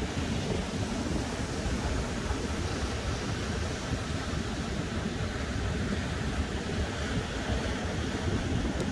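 Ocean surf washing in under strong wind that buffets the microphone: a steady rush of noise, heaviest in the low end.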